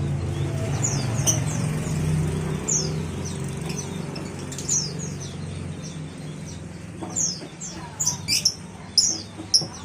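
Caged small songbirds chirping: short, high, downward-sliding chirps from several birds, coming thicker in the last few seconds, over a low steady hum that fades about two-thirds of the way through.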